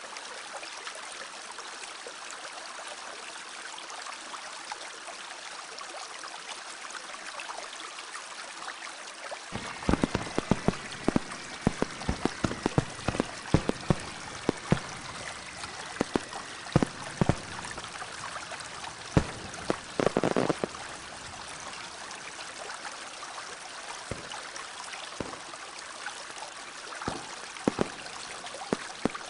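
Steady trickling, flowing water. About a third of the way in, a long run of irregular sharp clicks and knocks starts, thinning out towards the end.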